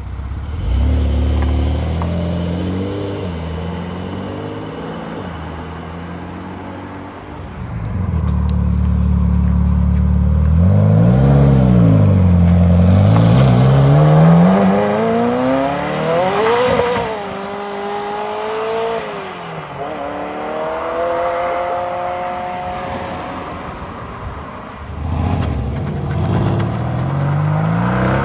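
Sports car engines pulling away one after another, revving up and down; one climbs in pitch through the gear, drops sharply at an upshift, then pulls on.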